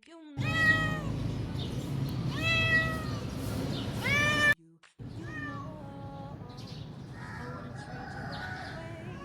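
A cat meowing loudly three times, each meow rising then falling in pitch, about a second and a half apart. After a brief break, fainter calls follow.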